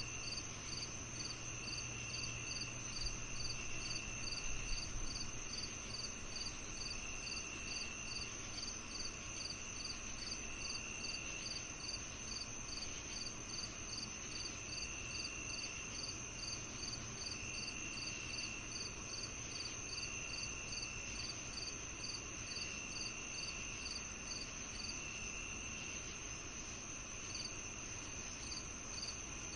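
Evening insect chorus of crickets chirping. A steady high trill runs under a regular chirp about twice a second, while a lower trill about a second long comes and goes every couple of seconds.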